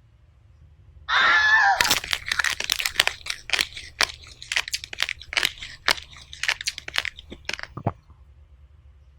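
Loud, crisp crunching of hard, brittle food being bitten and chewed close to the microphone, about three or four crunches a second for some six seconds. It stops abruptly. Just before the crunching starts there is a brief wavering, squeal-like cry.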